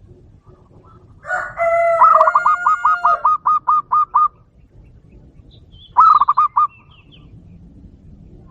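Bird calling loudly: a held, layered note, then a fast run of about ten repeated notes, and a shorter run of about five more notes a couple of seconds later.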